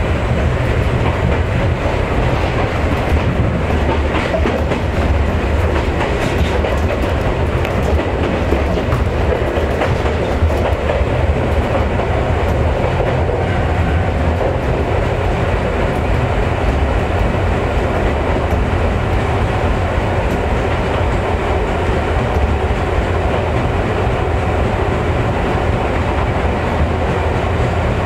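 Chichibu Railway electric train running, a loud steady rumble of wheels on rail with clacking over the rail joints.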